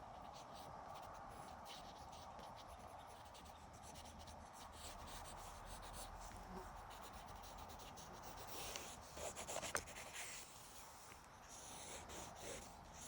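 Pen scratching on paper in quick, loose sketching strokes, faint, with a louder run of strokes about nine seconds in.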